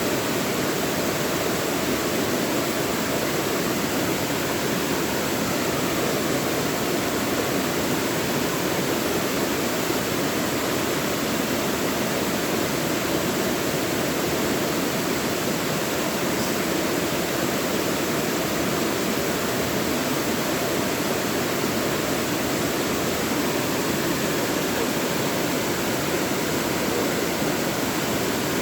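Mountain valley stream: water running with a steady, even rush that never lets up.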